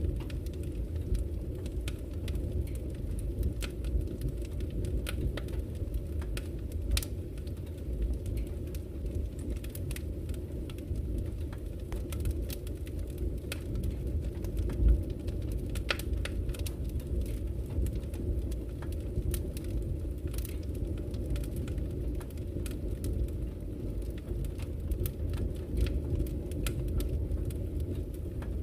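Wood fire burning in a fireplace: a steady low rumble with scattered sharp crackles and pops, one louder pop about halfway through.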